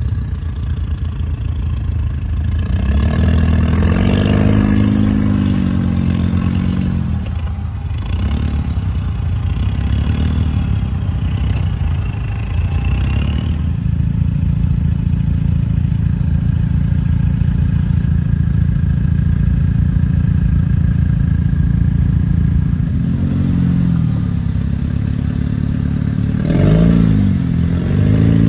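An off-road vehicle's engine running and revving up and down in several bursts: a few seconds in, again around ten seconds in, and near the end, with steadier running in between.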